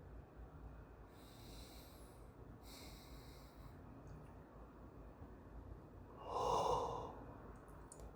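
A person breathing: two long, hissy breaths, then a louder, shorter breath about six seconds in.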